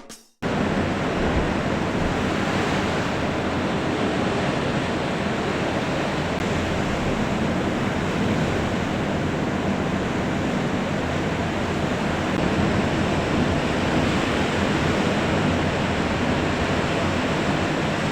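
Steady rushing of ocean surf mixed with wind on the microphone, starting abruptly about half a second in.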